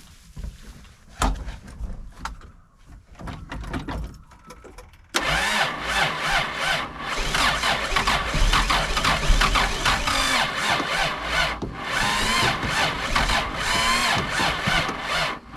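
Ford Crossflow 250 inline-six being cranked over on its starter motor for about ten seconds, starting suddenly about five seconds in, without settling into running. It fails to start because the throttle cable's ball clip is off, so the throttle is not being worked.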